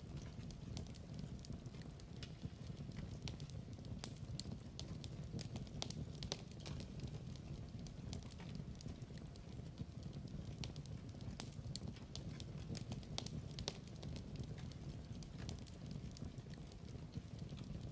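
Wood fire crackling and popping: a steady low rumble of flames with frequent sharp, irregular pops.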